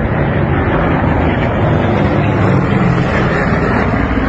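Propeller aircraft engines droning steadily overhead.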